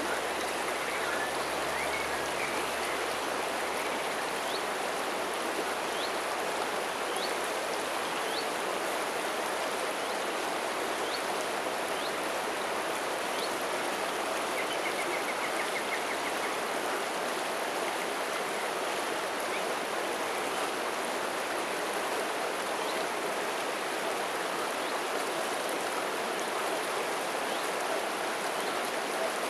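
Steady rushing of flowing river water, with a few faint high chirps scattered through it.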